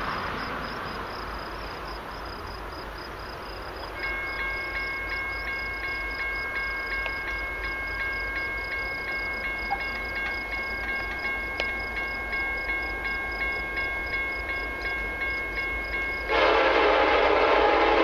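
A level crossing's warning bell starts ringing about four seconds in, with an even beat of about two strikes a second, as a freight train approaches. Near the end, a CN locomotive's Nathan K5LLA five-chime air horn starts sounding loudly for the crossing.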